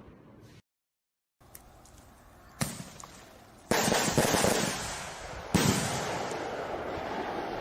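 Recorded fireworks exploding: after a brief dead-silent dropout near the start, a sharp bang about two and a half seconds in, then two louder booms, each followed by crackling and a long rumbling fade.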